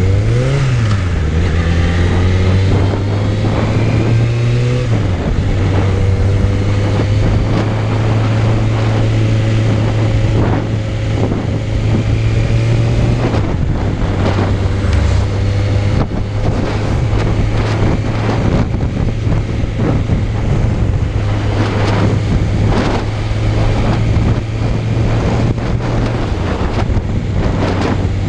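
Suzuki Bandit 600's inline-four engine running on the move. The pitch rises and falls over the first few seconds as the revs change, then holds steady at a constant speed, with wind buffeting the microphone.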